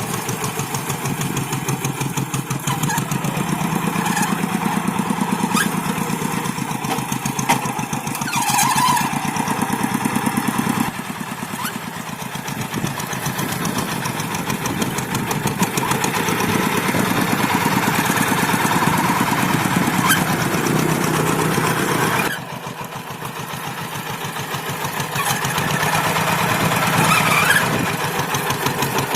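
Single-cylinder diesel engine of a two-wheel hand tractor running steadily while it pulls a moldboard plow. The engine sound drops in level twice, about a third of the way in and again about three-quarters of the way in, then builds back up.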